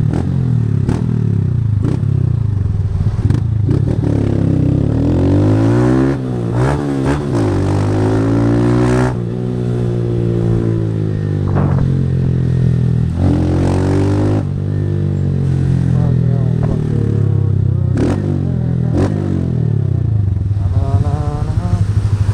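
A 160 cc single-cylinder motorcycle with a Fortuna Trioval aftermarket exhaust being ridden hard, its engine note climbing and dropping again and again as it revs out and shifts through the gears. A few short sharp clicks sound along the way.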